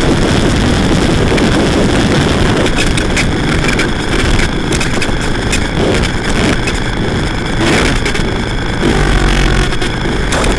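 Harsh electronic noise music from an effects-pedal and mixer rig: a loud, dense wash of distorted noise over a low rumble. About a third of the way in, the upper hiss starts stuttering in and out, and near the end a steady low hum with held tones comes in.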